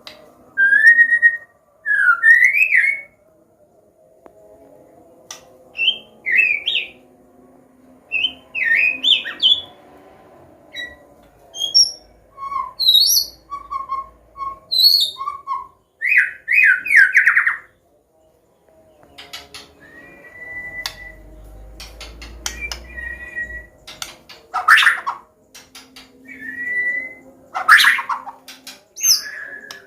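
White-rumped shama (murai batu, Medan type) singing a varied 'combination' song: short phrases of clear whistles, rising and falling glides and quick chirps, separated by brief pauses.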